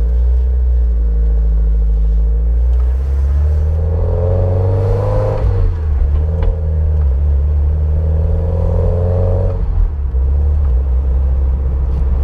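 Rebuilt Porsche 944 naturally aspirated four-cylinder engine running on its first start, idling and revved up twice, about four and eight seconds in.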